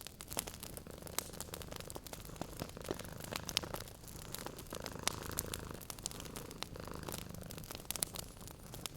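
A cat purring in long swells of a few seconds each, with short breaks between them. Over it a wood fire crackles, with frequent sharp pops and snaps.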